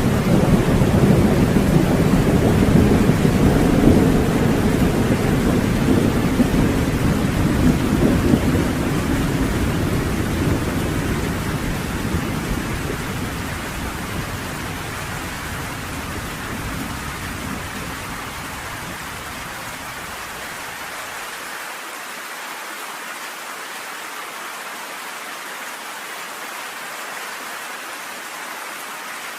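Steady heavy rain with a long rolling rumble of thunder that slowly dies away over about twenty seconds, leaving only the hiss of the rain.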